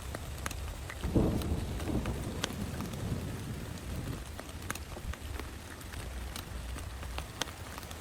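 Rain falling, with single drops clicking sharply on a plastic tarp. About a second in, a roll of thunder breaks in and fades out over the next few seconds.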